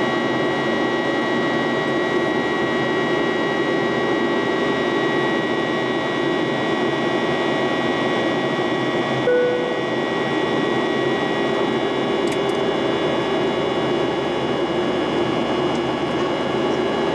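Steady cabin drone of a Boeing 737-800 in flight, its CFM56-7B turbofan engines running with several steady whining tones over the rush of air. A brief single-note tone sounds about nine seconds in.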